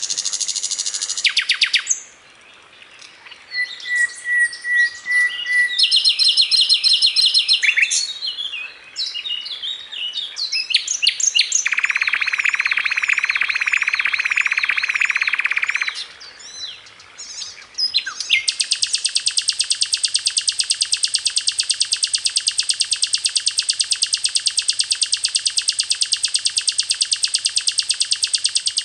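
A sikatan londo flycatcher singing continuously in a varied song of quick chirps and trills, with a buzzy phrase midway and a long, very rapid, even trill held for about ten seconds near the end.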